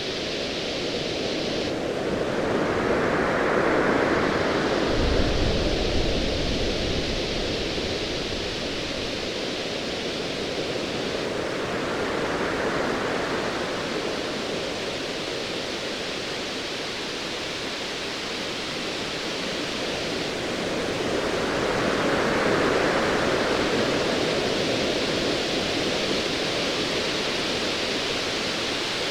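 Ocean waves washing in slow swells over a steady rushing surf, rising about three times, with a low rumble of distant thunder about five seconds in.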